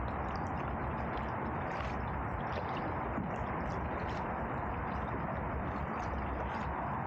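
Canoe paddling on a river: water trickling and dripping off the paddle in many small irregular drips and splashes over a steady rushing noise.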